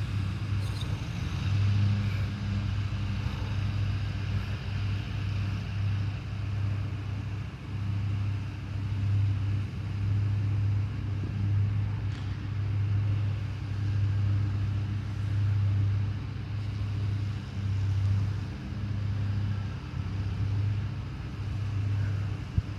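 Lawn mower engine running steadily, its loudness swelling and fading as the mower works back and forth across the grass. A single sharp click near the end.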